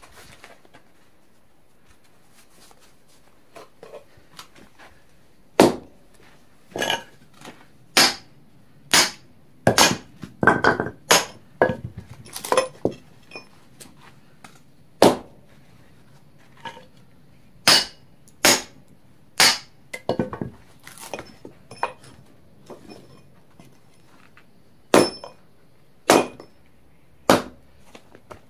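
An irregular series of about twenty sharp knocks and strikes of hard objects, some with a brief ring, spaced roughly one to three seconds apart and bunched more closely around the middle.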